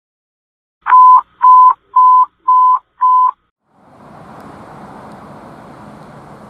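Five loud electronic beeps on one pitch, about two a second, the first the loudest and the later ones slightly softer. About a second after the beeps stop, a steady rushing noise with a low hum begins.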